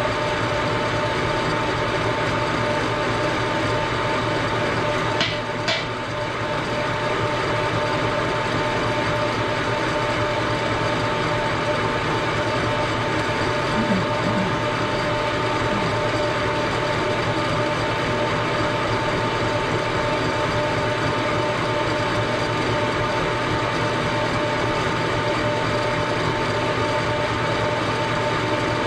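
A machine tool running steadily during a machining cut on a cast engine frame, with a constant whine of motor and gearing. Two sharp clicks come about five seconds in.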